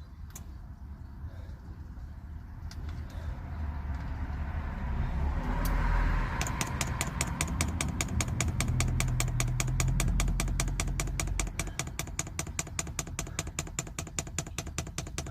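Diesel heater fuel pump clicking rapidly and evenly as it primes fuel through the line, starting about six seconds in, over a low hum that swells and fades in the middle.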